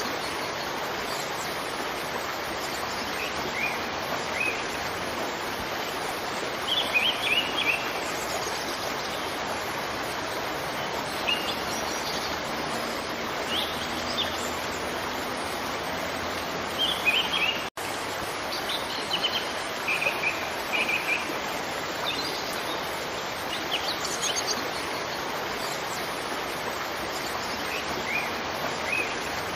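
Steady rush of a waterfall with songbirds chirping in short, high, scattered phrases over it. The sound cuts out for an instant a little past halfway, then resumes.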